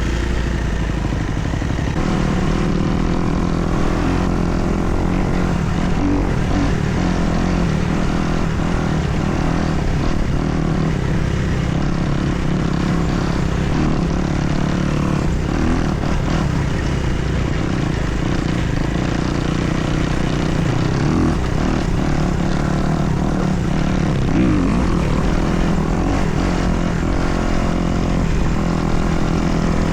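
2024 Kawasaki KX250 dirt bike's four-stroke single-cylinder engine running under way, its revs rising and falling with the throttle.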